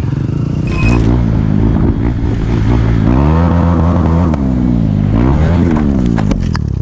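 Motorcycle engine running under load, its pitch climbing and dropping several times as the throttle is opened and closed.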